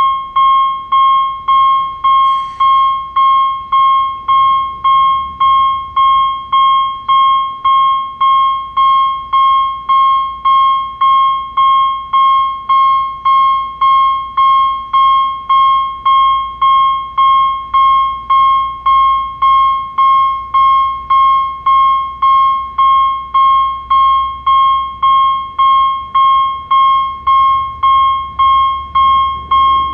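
Railway level crossing warning bell ringing steadily, one clear decaying ding about one and a half times a second, while the crossing signal is active.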